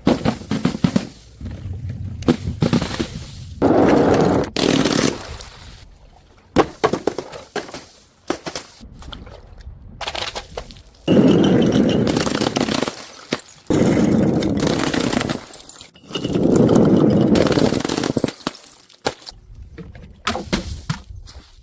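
A run of objects breaking and being crushed: sharp cracks and shattering impacts between three longer crunching stretches of one to two seconds each.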